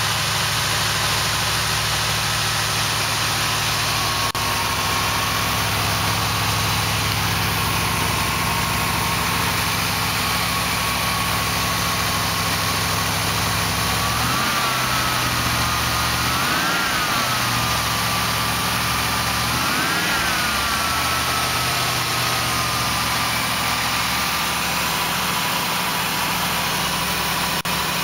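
1984 Corvette's 350 Cross-Fire Injection V8, on a straight-pipe exhaust, idling steadily. About halfway through the revs rise and fall three times in short blips. A thin steady whine rides on the engine note and rises with each blip.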